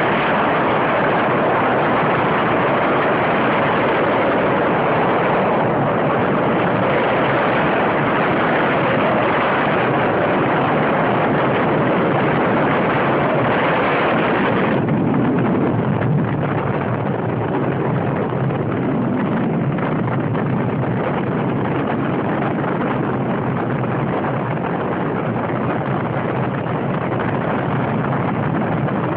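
Steady rushing noise of a moving vehicle, engine, road and wind noise together, easing a little about halfway through.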